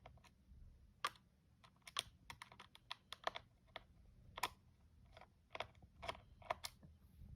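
Faint, irregular small clicks and taps, about two a second, from a screwdriver working screws out of a laptop's plastic case.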